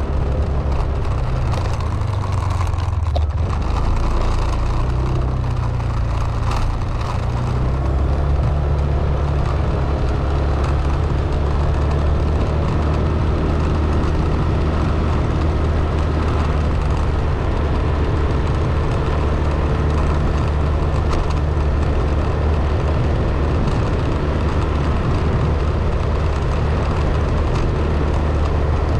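A motor vehicle's engine running steadily, its low hum shifting in pitch a few seconds in and then holding steady.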